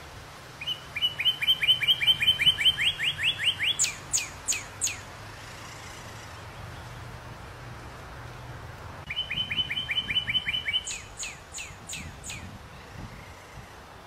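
A songbird sings two phrases. Each is a fast run of about a dozen high, evenly repeated notes that ends in a few quick downward-swept notes. The first phrase starts about half a second in and the second about nine seconds in, over a steady faint outdoor hiss.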